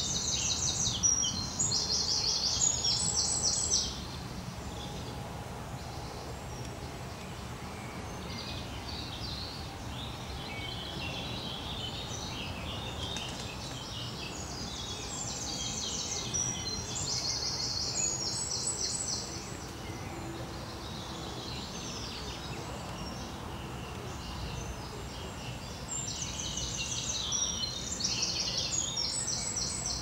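A songbird singing loud phrases of fast, repeated high notes, one phrase about every ten seconds, with quieter bird calls between them over a steady low outdoor background.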